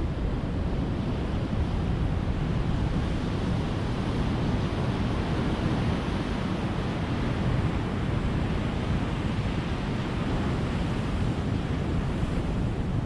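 Ocean surf: a steady wash of waves breaking on the shore, with no single crash standing out.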